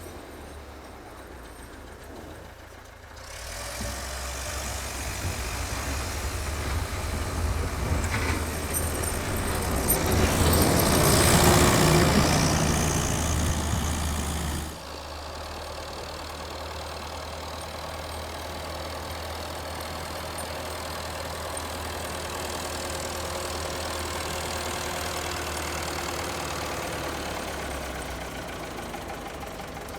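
Vintage Volvo tractor engine running and working. It grows louder from about three seconds in, is loudest around eleven to twelve seconds, then drops suddenly about halfway through and runs on steadily.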